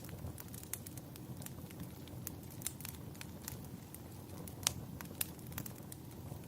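Wood fire crackling: irregular sharp pops and snaps over a low, steady rumble of burning, with one louder pop a little after the middle.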